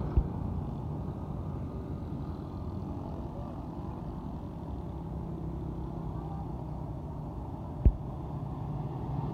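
Truck engine and road rumble while driving, a steady low drone. Two short low thumps come through, one just after the start and one near the end.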